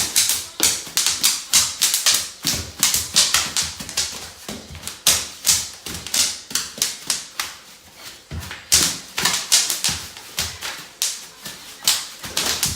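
Bubble wrap popping under children jumping on it: quick, irregular sharp snaps, several a second, thinning out briefly just past the middle.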